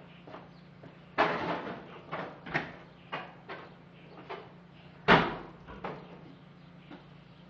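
A series of about eight irregular knocks and clunks, the loudest a little after a second in and about five seconds in, over a faint steady hum.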